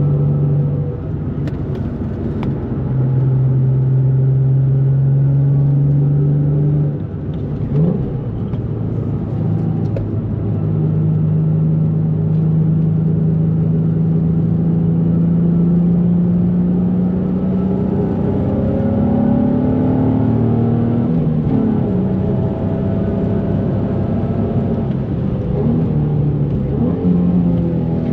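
2004 Nissan 350Z's 3.5-litre V6, fitted with a Z1 exhaust, Z1 intake and JWT pop charger, running under way. The engine note holds steady, dips about seven seconds in with a quick rise in revs like a gear change, then climbs slowly in pitch as the car accelerates, before dropping again about two-thirds of the way through.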